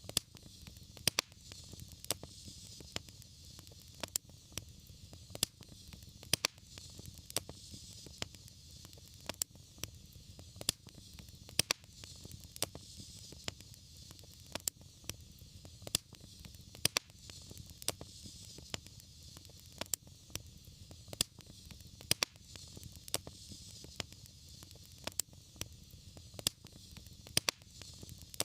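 Wood fire crackling in a fireplace: sharp, irregular pops and snaps, several a second, over a steady low rumble and a soft hiss.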